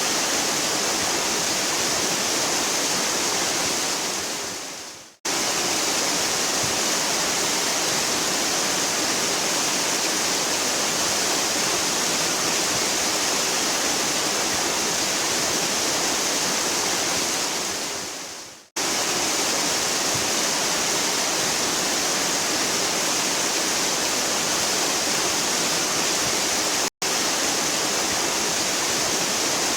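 A waterfall rushing steadily, a dense, even hiss of falling water. Twice it fades away over about a second and cuts straight back in, and near the end it drops out for an instant: splices in the recording.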